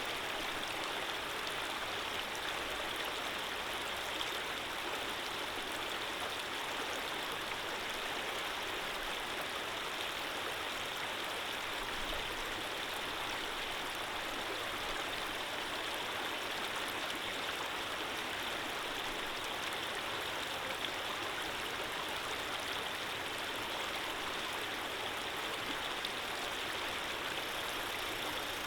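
Running water flowing steadily, an even rushing hiss with no change.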